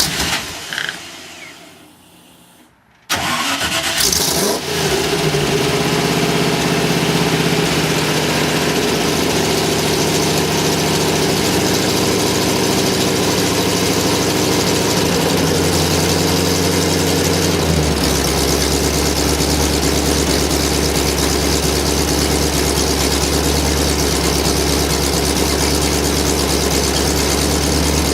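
TVR-built Rover V8 engine being started for the first time after standing 12 months: a first burst that fades away, then it catches about three seconds in and runs on through a freshly rebuilt exhaust. Its running note changes abruptly about eighteen seconds in.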